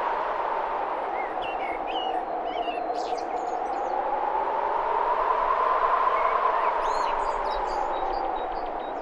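Birds chirping and trilling in short, scattered calls over a steady rushing background.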